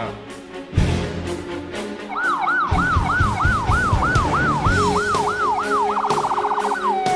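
Emergency vehicle's electronic siren sweeping up and down about three times a second, switching to a fast warble near the end and then gliding down in pitch. Background music with a steady beat plays throughout.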